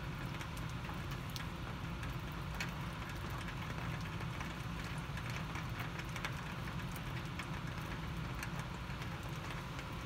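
Heavy rain falling steadily, a dense even hiss with a low rumble under it, and many small sharp ticks of drops striking close by.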